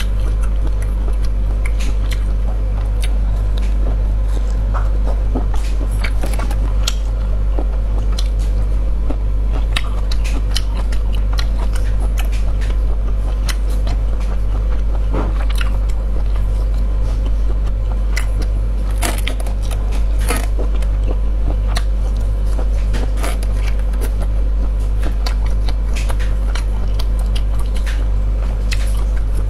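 Close-miked chewing and biting of a ring sausage, with many short wet mouth clicks and smacks, over a steady low hum.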